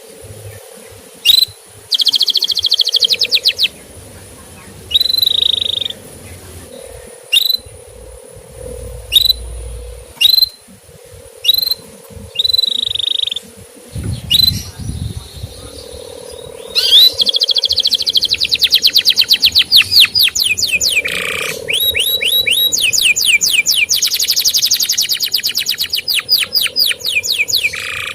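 Male canary singing: single sharp up-slurred chirps and short buzzy phrases, breaking about halfway through into a loud, continuous song of fast trills. A faint steady high tone and a low hum run underneath.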